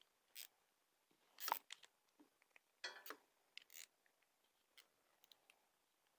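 Scattered light clicks, clinks and short scrapes of hand tools and small metal parts being handled during work on an ATV brake master cylinder, the sharpest about a second and a half in.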